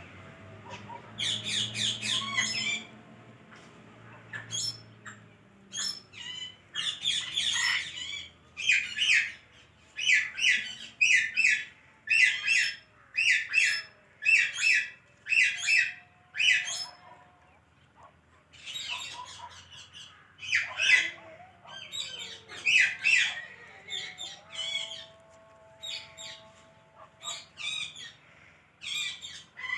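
Pet parrot squawking over and over, in short harsh calls about one a second with a few pauses, and a few held whistle-like notes between them.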